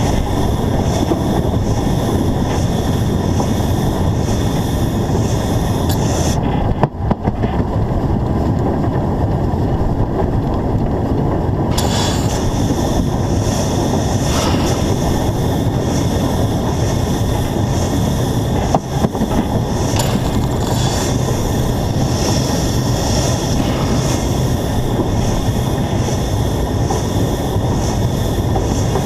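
Running noise of a narrow-gauge steam locomotive under way, heard from a camera mounted on the engine, mixed with steady wind noise on the microphone. From about 7 to 12 seconds in the higher sounds drop away, leaving a duller rumble.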